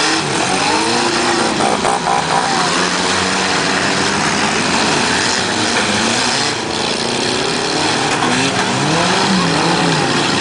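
Several four-cylinder demolition derby cars revving hard, their engine pitches rising and falling over one another, with a few knocks of cars ramming each other about two seconds in.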